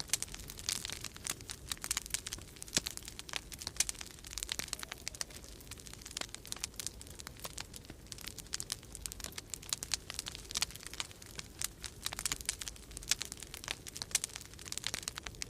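Wood fire crackling in a fireplace: dense, irregular pops and snaps over a faint low rumble.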